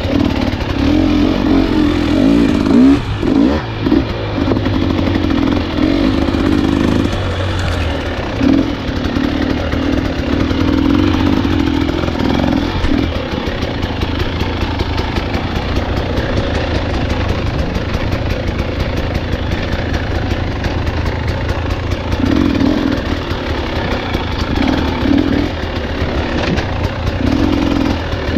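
Enduro dirt bike engine running hard on a trail, revving up and easing off in turn as the throttle opens and closes. It pulls strongly through the first dozen seconds, runs lighter through the middle, then picks up again near the end.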